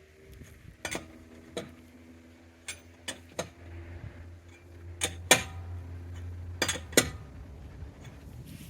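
Lug nuts and a lug wrench clinking metal on metal, about nine separate clinks each with a brief ring. A low hum swells in the middle.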